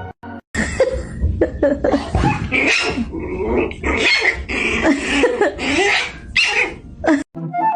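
A dog vocalizing in a rapid string of short growls and barks whose pitch wavers up and down, starting about half a second in and stopping abruptly near the end.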